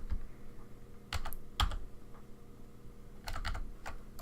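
Scattered short clicks from computer keys or buttons, in three small groups of one to three clicks each, over a faint steady hum.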